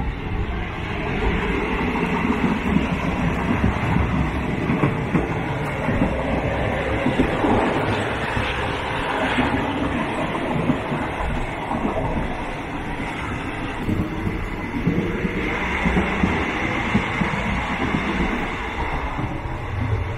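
Running noise heard inside a third-class carriage of a State Railway of Thailand ordinary train under way with its windows open: a steady clatter of wheels on the rails and the carriage rattling.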